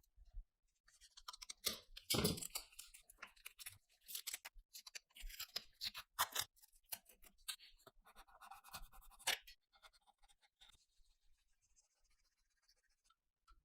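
Hand work on metal gun parts: irregular scraping, rubbing and small clicks, busiest in the first two-thirds and tapering to faint rubbing near the end.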